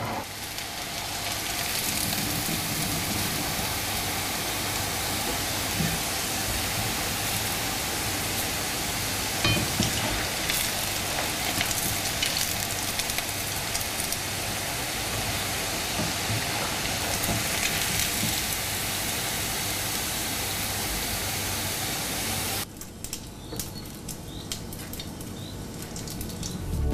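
Potato and vegetable kebabs frying in hot oil: a steady, dense sizzle with crackles. About 23 seconds in it suddenly drops to a quieter crackle.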